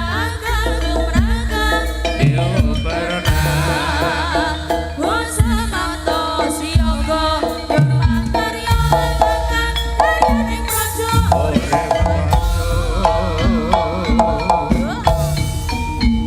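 Live East Javanese jaranan gamelan music: drums and metal gong percussion keep a steady beat under a wavering, ornamented melody line.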